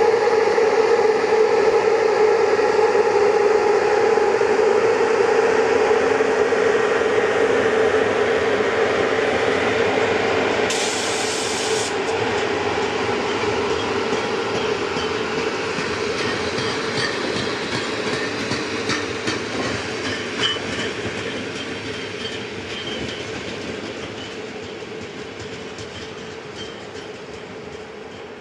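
Passenger train hauled by an electric locomotive rolling past: first a steady hum from the locomotive, then the coaches' wheels clicking over rail joints, fading steadily as the train moves away. A short burst of hiss about eleven seconds in.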